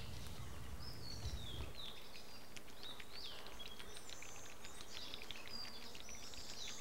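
Wild birds chirping: many short, high notes that fall in pitch, repeating throughout over a faint outdoor background, with a low rumble underneath that stops about a second and a half in.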